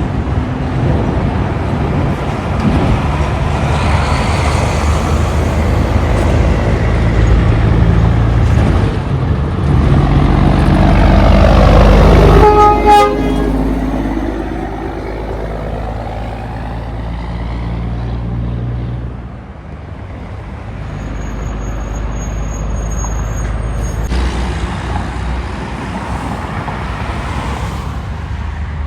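Semi truck passing close with its diesel engine running, growing louder to a peak about twelve seconds in, where it gives a short horn blast. Its engine note then drops in pitch as it moves away, leaving steady traffic noise.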